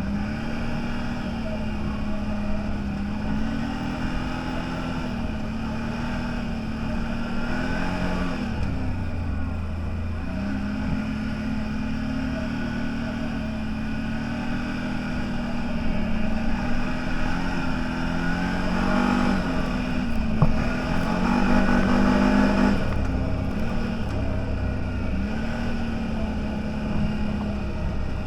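Off-road vehicle engine running under way, its revs repeatedly dipping and rising as the throttle changes. It is louder for a stretch past the middle, with a sharp knock near there.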